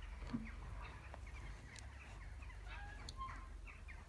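Faint bird calls: scattered short chirps and calls over a low steady hum.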